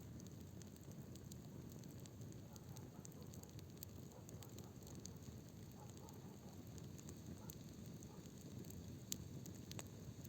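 Bonfire crackling quietly: frequent small snaps and ticks over a steady low rush, with one sharper pop about nine seconds in.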